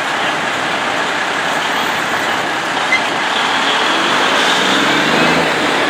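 Diesel truck engines running. About four seconds in, one engine comes up clearly and rises slightly in pitch as it pulls away or speeds up.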